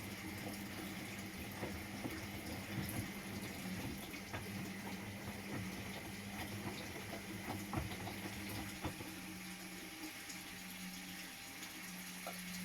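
Washing machine taking in water: a steady rush of water running in, over a constant low hum.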